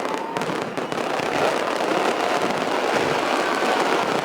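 Fireworks going off in a dense, continuous crackle, with a few faint whistles.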